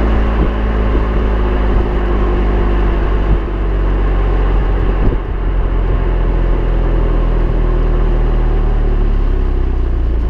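BMW M4's twin-turbo straight-six engine and exhaust running steadily while driving, at a fairly even pitch, with a brief dip in level about five seconds in.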